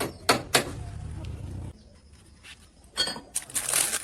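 Two sharp clanks of metal striking steel over a low hum that cuts off abruptly before two seconds in, then a hissing, crackling burst of noise near the end.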